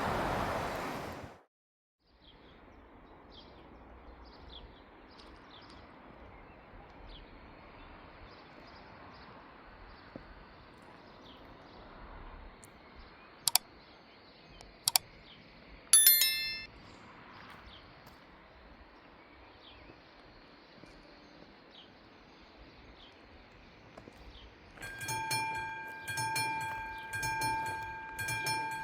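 Quiet rural background with faint bird chirps, two sharp clicks and a brief high chirping burst midway. About 25 seconds in, the level crossing's classic electric warning bells start ringing, a fast repeating metallic ring, as the crossing warning begins for an approaching train.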